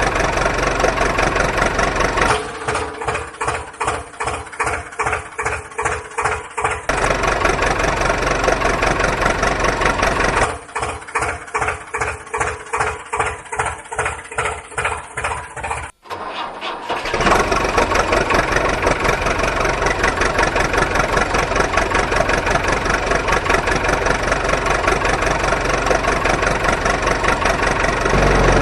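An engine being cranked over in a rhythmic chug of about two to three pulses a second, twice for several seconds, between stretches of the engine running steadily.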